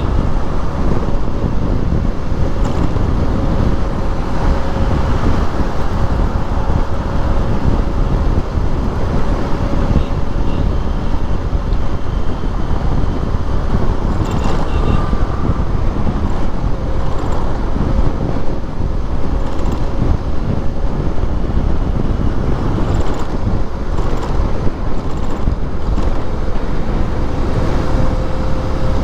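Motorcycle on the move: steady wind rushing over the microphone mixed with road and traffic noise, with a faint steady hum underneath.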